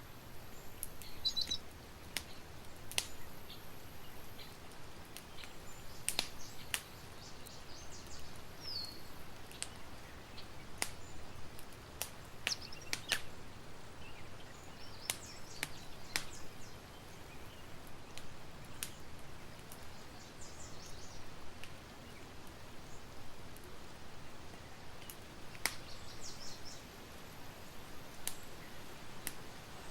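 Campfire crackling: irregular sharp pops and snaps over a soft steady hiss. Now and then a short, high bird chirp is heard.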